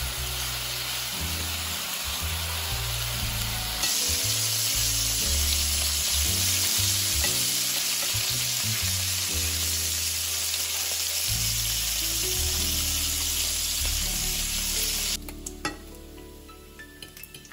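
Bacon strips sizzling in a hot frying pan, a steady spitting hiss. It grows louder about four seconds in and cuts off suddenly near the end.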